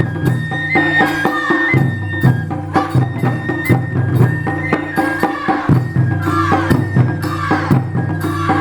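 Taiko drum ensemble playing a fast, steady rhythm of drum strikes, with a high flute carrying a melody over the drums and some metallic ringing strikes.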